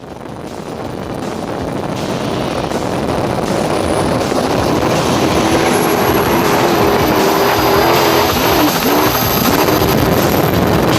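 Loud engine noise that fades in and builds over the first few seconds, then holds steady, with a thin high whine slowly rising in pitch.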